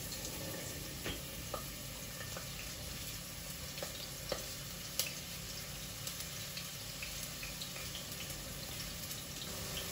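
Onions being cut by hand with a knife on a board: scattered light clicks and taps over a steady low hiss.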